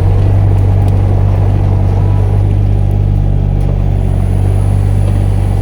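Mini excavator engine running steadily at a constant speed, a loud, even hum.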